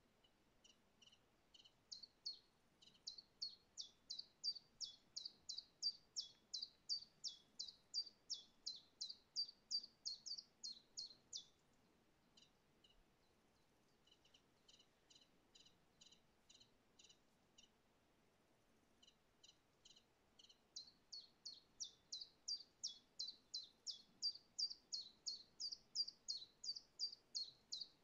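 A songbird singing long runs of short, high, down-slurred notes, about three a second. The song drops to fainter notes a little after ten seconds in and comes back strongly for the last third.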